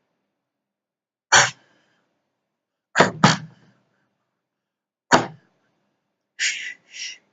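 Cartoon sound effects: four short, sharp hits, the middle two in quick succession, then two short hissy bursts near the end, with dead silence between them.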